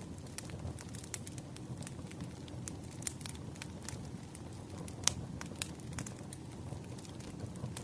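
Firewood burning: a steady low rumble of flames with irregular sharp pops and crackles, the sharpest about five seconds in.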